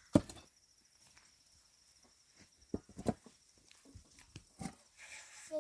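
A few scattered knocks and clicks: the loudest comes just after the start, and two more come close together about three seconds in.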